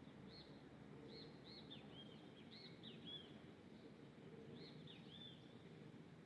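Faint high chirps of a small bird: a quick run of short arched notes in the first three seconds, then a few more about five seconds in, over a steady low background hiss.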